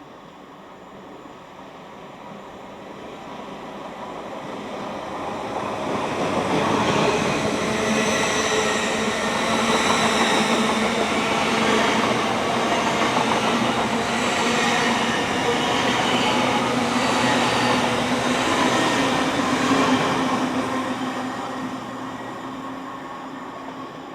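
A passenger train passing at speed. The rumble of wheels on rail builds as it approaches, stays loud for about thirteen seconds as the carriages go by, then fades away.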